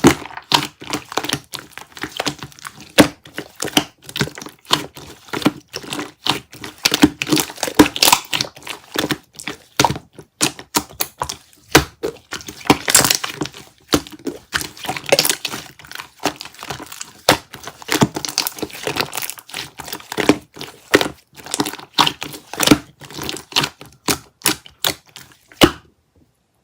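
Thick, creamy yogurt-type slime being squeezed and poked by hand, giving a dense, irregular run of crackling clicks and pops that stops just before the end.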